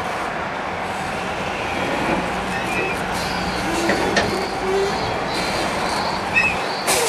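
Steady rumble of heavy vehicles going by, with a couple of short high squeals, such as brakes or wheels.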